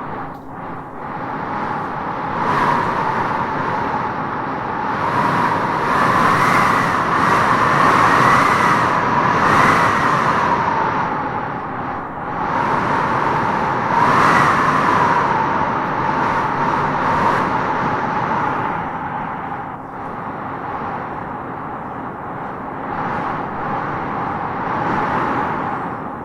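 Howling wind gusting through trees: a steady rushing with a whistling howl that swells louder and rises in pitch in several gusts, strongest from about a quarter to well past a third of the way in and again just past halfway.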